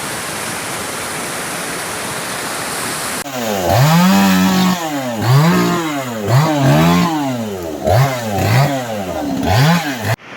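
Steady rush of floodwater for about three seconds, then a chainsaw revved up and down repeatedly, its pitch rising and falling about once a second in short throttle bursts, as when cutting through a fallen tree.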